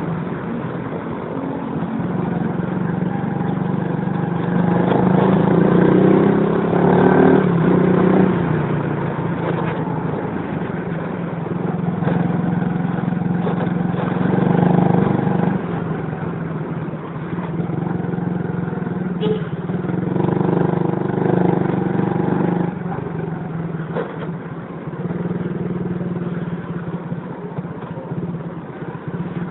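Honda XRM motorcycle's single-cylinder engine running under way. It swells and eases off several times as the rider accelerates and backs off, over steady road and wind noise.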